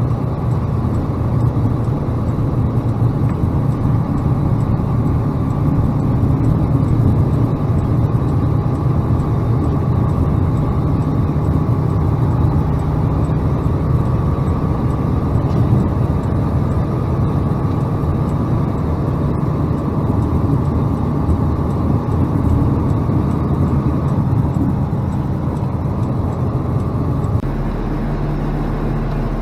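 Freightliner plow truck's diesel engine and road noise running steadily, heard inside the cab. Near the end it drops to a steadier low hum.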